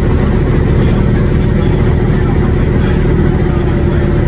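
Boat engine running steadily, a loud low rumble with a constant hum.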